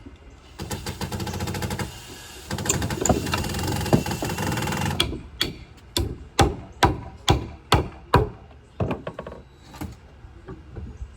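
Mechanical rattling with rapid ticks for a few seconds, then a run of about eight sharp knocks, roughly two a second, followed by a few fainter knocks.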